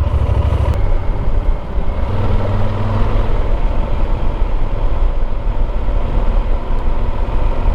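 Motorcycle engine running steadily under way, with heavy wind and road rumble; the engine note stands out a little more for about a second, about two seconds in.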